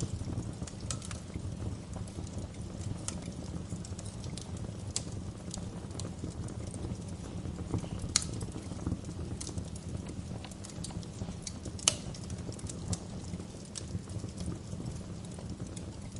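Wood fire crackling in a fireplace: a steady low rumble of flames with scattered pops and snaps. The two sharpest pops come about eight and twelve seconds in.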